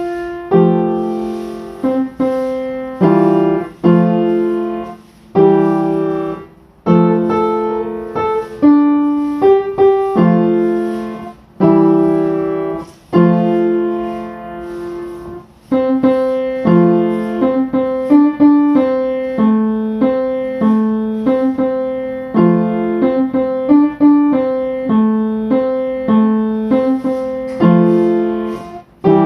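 Solo piano music, slow chords and single notes that each ring out and fade, the notes coming a little quicker in the second half.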